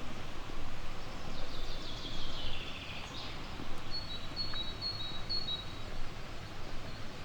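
Songbirds singing over a steady background hiss: one bird gives a quick run of high notes falling in pitch about a second in, then a high two-note phrase is repeated over and over from about four seconds in.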